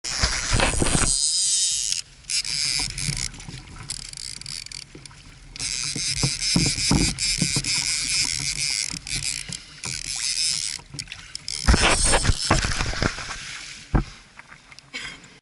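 Water sloshing and splashing around a kayak with wind on the microphone, broken by sharp knocks against the hull. The sound cuts abruptly on and off several times.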